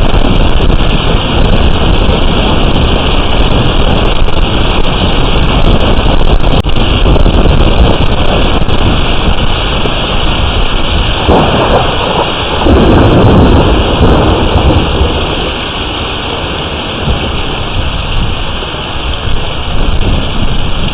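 Hailstorm in strong wind: rain and hail pelting down in a dense steady roar, peppered with sharp ticks of hailstones striking, and wind rushing over the microphone. A louder swell comes about halfway through.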